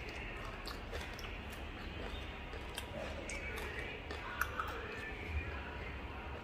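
A person chewing a crisp-fried sardine whole, bones and all, with faint crunching clicks over a steady low hum.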